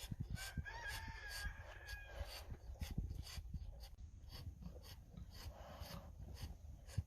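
A rooster crows once, one long held call starting about half a second in and lasting around two seconds, heard faintly over a steady run of crunching or scuffing sounds, several a second.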